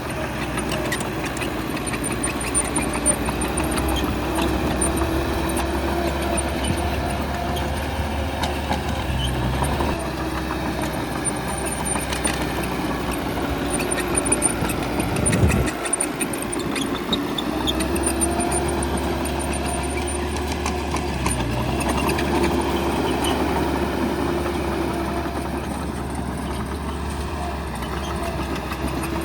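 Bulldozer's diesel engine running steadily, rising and falling with load as it works, with a brief dip in the low drone about halfway through.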